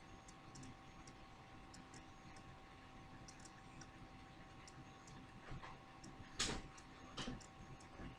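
Quiet room tone with a faint steady hum and faint regular ticking, and two sharper clicks a little over six seconds in and about a second later.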